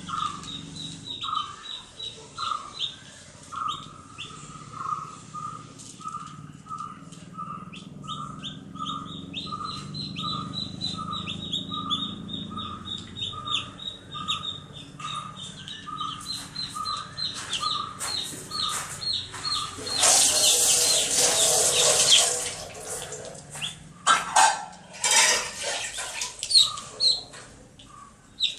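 Baby chicks peeping: many quick high chirps over a lower call repeated every second or so. About twenty seconds in there is a loud burst of noise lasting a couple of seconds, followed by a few loud sharp calls.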